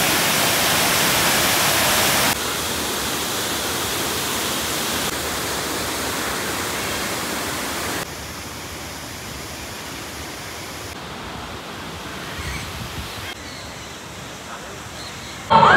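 Steady rushing noise with no tone or rhythm, dropping or rising abruptly in level several times. Near the end, loud music and voices cut in.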